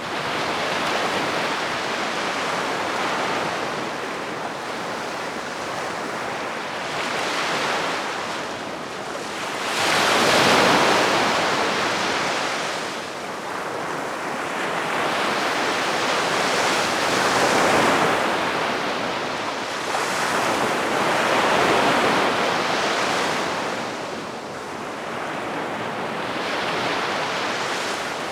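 Gentle sea waves breaking and washing up a sandy beach, the surf swelling and ebbing every few seconds, with the biggest wash about ten seconds in.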